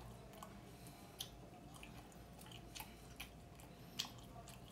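Faint chewing of grilled barbecue meat, with a handful of short wet mouth clicks, the loudest about a second in and near the end.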